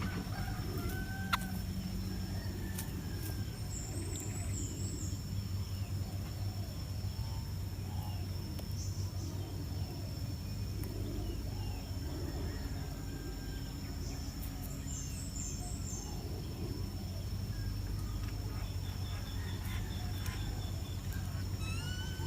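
Small birds chirping, with many short cheeps and a few high trills scattered throughout, over a steady low hum and a constant high thin whine.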